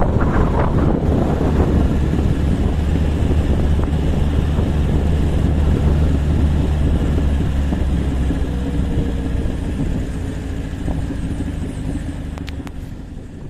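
Motorcycle engine running, mixed with wind buffeting the microphone; it fades away over the last few seconds.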